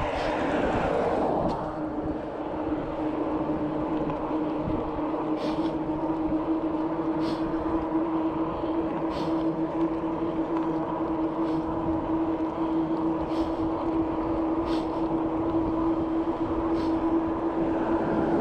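Bicycle in motion at a steady speed: a constant whining hum over rolling road noise, with a light tick about every two seconds. A louder rushing swell fades out in the first second or so.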